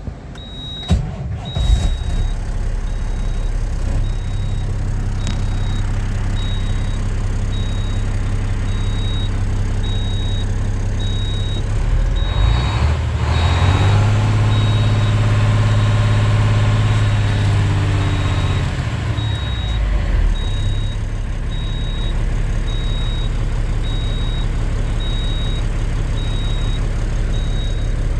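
Cummins L10 inline-six diesel in a Kenworth T450 truck running, with a couple of sharp knocks in the first two seconds. About twelve seconds in it is revved up, held at higher revs for several seconds, then falls back to idle around twenty seconds in. A short high beep repeats at a steady pace throughout.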